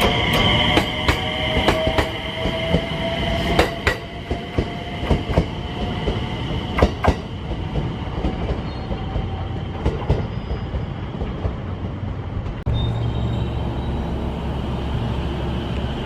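Train at a station, its wheels clicking over rail joints, with a steady high squeal and a slowly rising whine. About three-quarters of the way through, the sound changes abruptly to a steady low hum.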